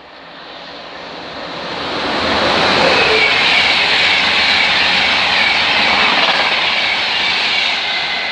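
Class 91 electric locomotive-hauled InterCity 225 train going past on the East Coast Main Line: a rush of wheels on rails and air that builds over the first couple of seconds, stays loud, then starts to fade near the end, with a faint high ringing from the wheels and rails.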